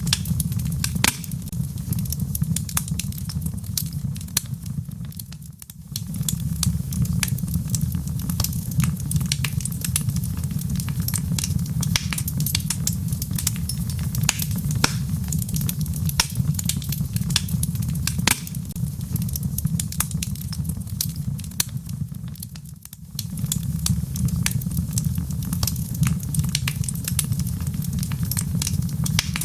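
Wood logs burning in a fireplace, crackling with many sharp pops and snaps over a steady low rumble. The rumble briefly fades twice.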